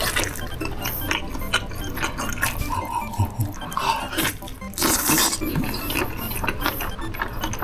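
A run of light clicks and clinks of small hard objects, with a short hiss about five seconds in.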